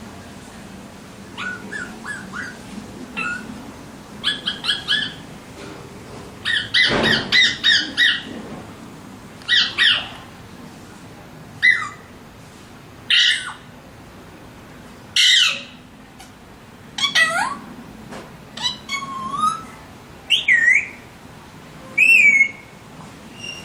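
Alexandrine parrot calling: a few short chirps, then a quick loud series of squawks, then single harsh calls every second or two. Near the end the calls turn into gliding whistled notes.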